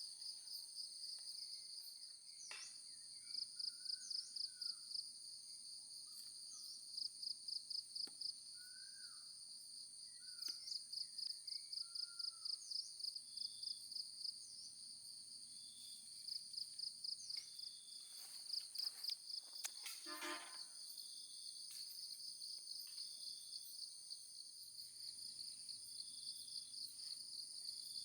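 Night-time-style insect chorus: crickets trilling steadily, with runs of quick pulsed chirps that come and go every few seconds. A few short whistled bird notes sound through it in the first half.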